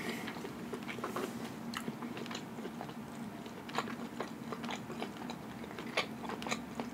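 A person chewing a mouthful of food close to the microphone, with the mouth closed: soft wet smacks and clicks at irregular intervals. A faint steady hum sits underneath.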